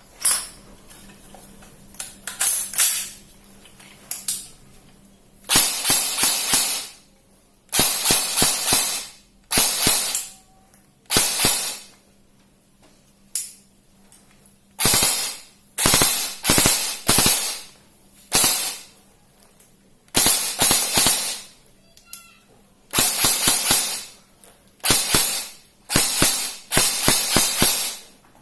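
Electric M4 airsoft gun (AEG) test-firing in repeated bursts: some single shots, others rapid strings lasting about a second, with short pauses between.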